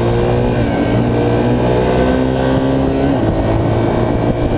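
Motorcycle engine pulling up through the gears under way. Its pitch climbs steadily, drops at a gear change about half a second in, climbs again, and drops at another shift about three seconds in.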